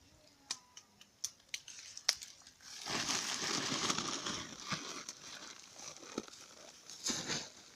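Wooden cooking stick working thick ugali in a metal sufuria: a few sharp knocks, then a longer stretch of rough scraping and mashing about three seconds in, and a shorter one near the end.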